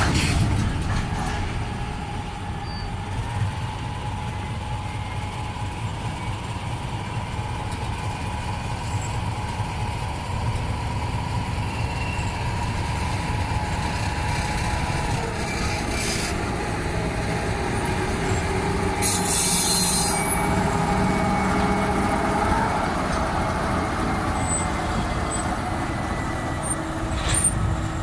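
A TGM6V diesel shunting locomotive running at work, a steady low engine rumble with a drawn-out whining tone that slides in pitch as it moves. About two-thirds of the way through comes a short burst of hissing air.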